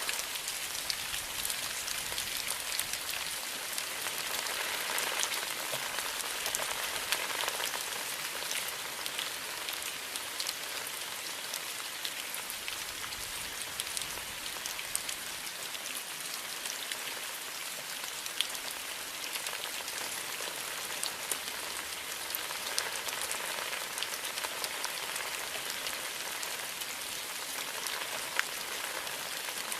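Steady rain falling on leaves, with many individual drops ticking sharply over an even hiss.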